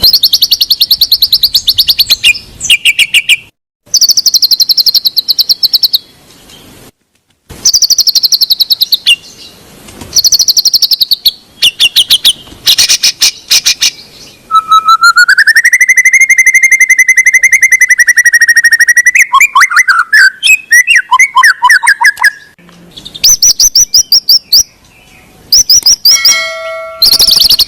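White-rumped shama song: bursts of rapid, high trilled notes broken by short pauses, with one long, clear whistled note held for several seconds in the middle, followed by a quick run of varied notes.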